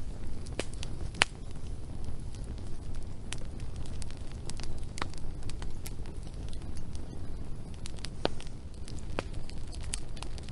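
Wood fire burning: a low steady rumble with scattered sharp crackles and pops, one louder pop about a second in.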